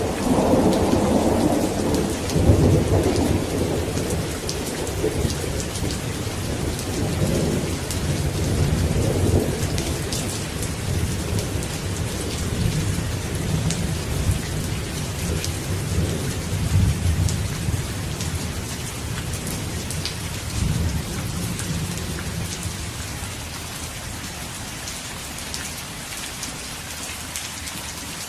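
Steady rain with a rolling thunder rumble that is loudest at the start and dies away over the first twenty seconds or so, leaving rain alone near the end.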